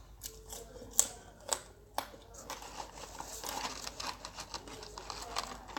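Close-miked eating sounds: a person chewing McDonald's fries with sharp mouth clicks and smacks, the loudest three about half a second apart. Softer rustling follows as a hand goes back into the paper fries carton.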